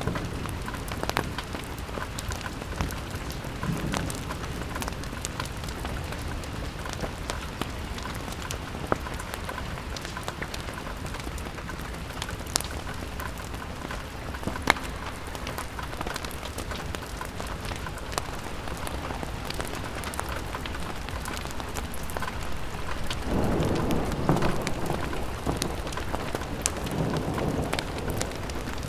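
Steady rain falling on a window, an even hiss with many small scattered ticks of drops. A low rumble swells up for a couple of seconds near the end.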